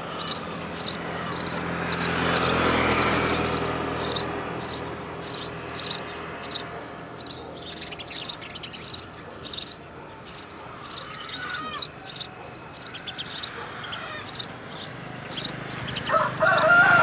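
House sparrow chirping over and over, short high chirps at about two a second. Near the end a lower, warbling bird call joins in.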